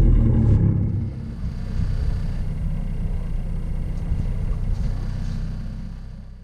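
A boat's engine running steadily with a low, even hum, louder for about the first second, then fading away near the end.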